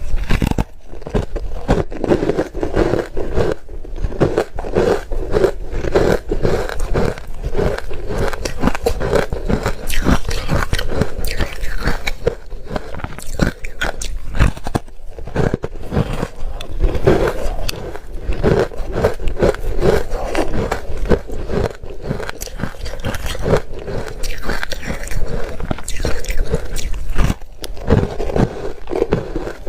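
Close-up mouth sounds of ice being bitten and chewed: rapid, continuous crunching of ice in the mouth, dense with sharp cracks.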